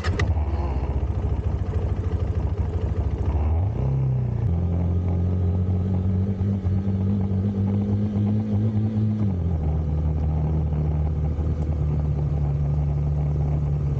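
Motorcycle engine running, its pitch rising about four seconds in and holding, then dropping a little around nine seconds in.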